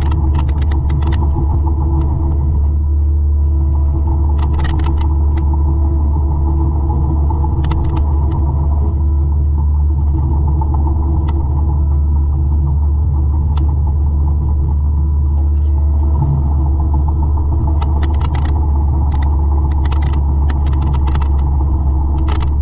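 A 200-horsepower forestry mulcher's diesel engine running steadily under load, with bursts of sharp crackling and snapping as the mulching head chews through brush and wood, the longest run near the end.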